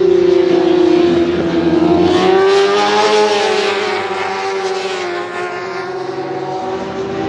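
Superbike racing motorcycles running at high revs, the engine pitch sagging a little and then climbing about two to three seconds in before easing off.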